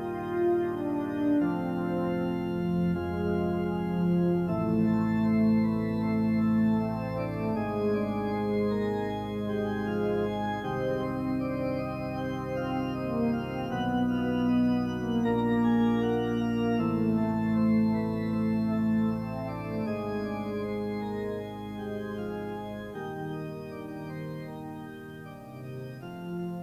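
Organ music playing sustained chords that change every second or two over a held low note, getting quieter toward the end.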